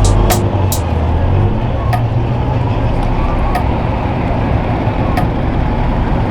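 Car engines running amid steady vehicle and crowd noise, with a low engine drone for the first second and a half and sharp clicks every second or two.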